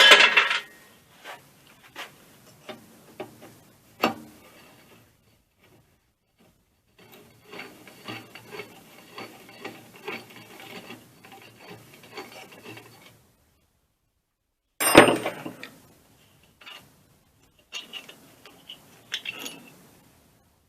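Metal parts of an air compressor being handled during disassembly: sharp clicks and knocks, a long stretch of rubbing and scraping in the middle, and loud clatters at the start and about fifteen seconds in.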